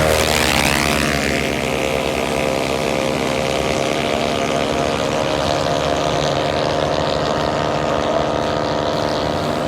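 Automatic (CVT) racing scooter engines at full throttle in a drag run, holding a steady high pitch as the transmissions keep the revs nearly constant.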